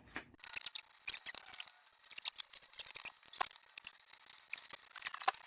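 Scattered light clicks and scrapes of metal on metal as a motorcycle engine is worked into its frame.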